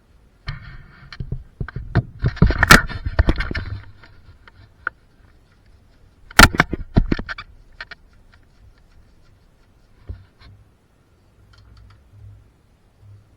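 Workshop handling noise of tools and metal parts: a run of knocks and scraping clatter in the first few seconds, then a second sharp clatter about six and a half seconds in, followed by a few scattered light clicks.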